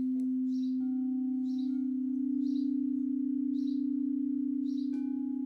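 Singing bowl ringing with one steady low tone and a slow pulsing, struck again about a second in and near the end, when higher overtones join it. A bird chirps repeatedly in the background, about once a second.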